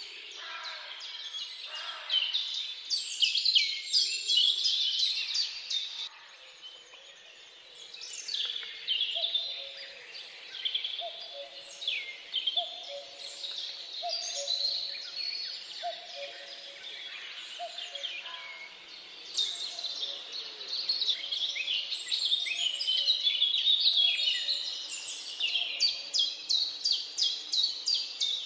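Forest birdsong: several birds singing at once with chirps and fast trills. Through the middle a lower two-note call repeats about once a second, and near the end one bird gives a quick run of notes, about four a second.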